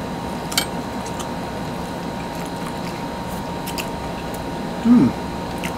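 Two people chewing bread donuts with a cheese filling, over a steady room hiss. A faint click comes just after the start, and a short falling 'mm' about five seconds in.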